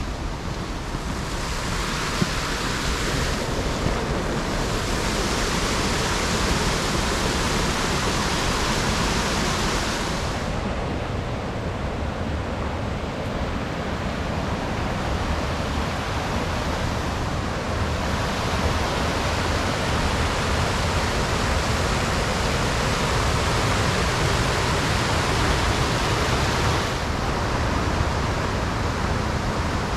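Waterfall rushing steadily, a loud even roar of falling water. Its hiss turns duller about ten seconds in, brightens again a few seconds later, and dulls once more near the end.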